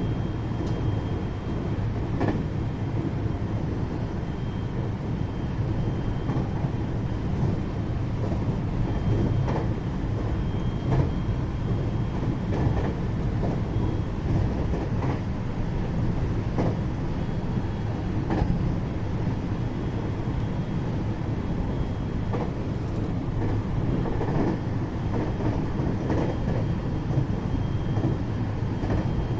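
Interior running noise of a 521-series electric multiple unit's motor car cruising at steady speed: a dense steady rumble from the wheels and bogies, with a faint steady high whine and light clicks every couple of seconds as the wheels pass rail joints.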